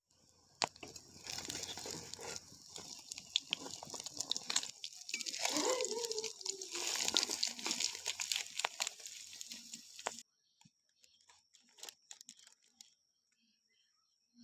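Kitchen cooking noises: a dense crackling and crinkling with many sharp clicks, which cuts off suddenly about ten seconds in, followed by a few faint clicks.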